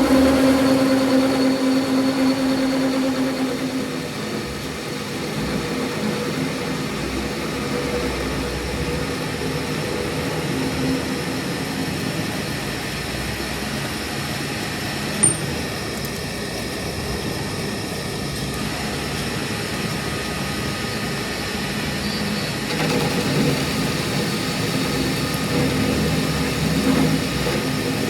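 A machine's motor running steadily with a hum, and a single short sharp click about halfway through.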